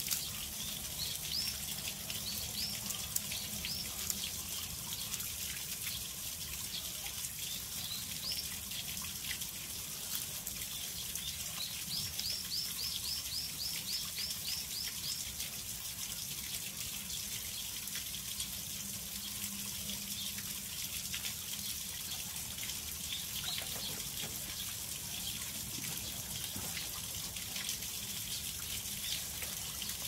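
Steady background hiss, like running water, with a small bird chirping: short rising chirps here and there, and a quick run of about a dozen chirps around the middle.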